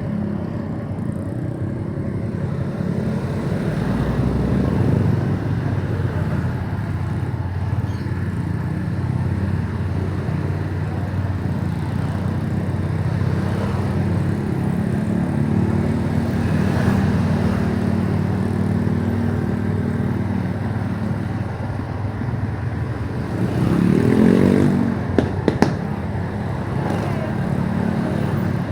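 Motorcycle engine running while riding, its pitch drifting up and down with the throttle over a haze of road and wind noise. About 24 seconds in the pitch rises and falls quickly, followed by a few sharp clicks.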